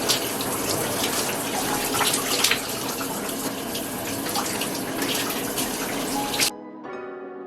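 Water running hard from a tap as hair is rinsed out under it, an even rushing splash that cuts off suddenly near the end. Soft background music sits underneath.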